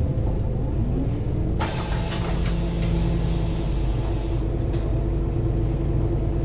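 Scania diesel engine of a Lahti Scala city bus running steadily. From about one and a half seconds in, a loud hiss of compressed air lasts about three seconds, then cuts off suddenly.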